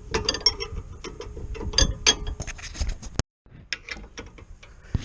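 Hand ratchet clicking in quick irregular runs as it tightens the brake caliper bracket bolts down, with a short break about three seconds in.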